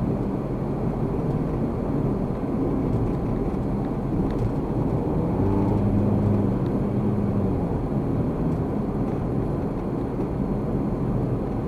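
Car driving, heard through a dashcam: steady road and engine rumble, with a low hum that swells for a second or two about halfway through.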